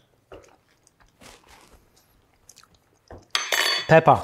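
Faint chewing of a mouthful of raw vegetable burger mix. About three seconds in, a pepper mill starts grinding loudly over the bowl.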